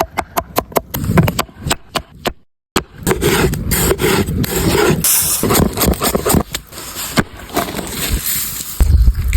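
A run of irregular knocks and scraping from cooking work, with a short break about two and a half seconds in.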